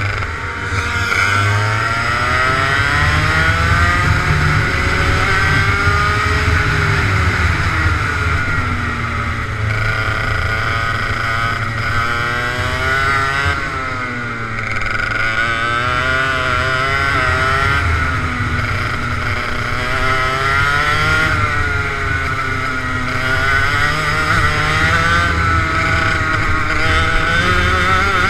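Kart engine revving up and down over and over as it is driven through a series of corners, its pitch climbing on each straight and dropping as it lifts off, over a steady low rumble.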